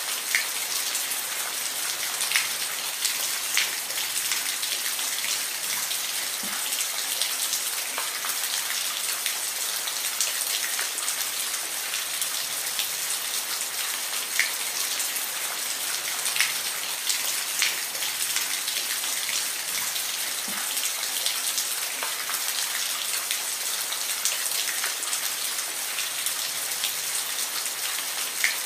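Steady rain falling, a constant hiss with many individual drops pattering and ticking sharply against a hard surface.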